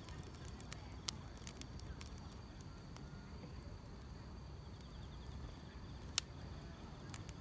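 Wood fire crackling, with scattered sharp pops and one louder pop about six seconds in, over a low steady rumble, with grass insects chirping steadily in a high faint trill.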